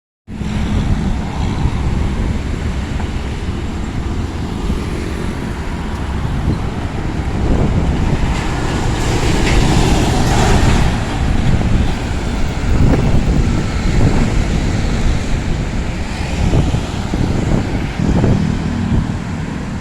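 Truck and road noise: a heavy vehicle's engine and tyres rumbling steadily, swelling louder for a couple of seconds around the middle.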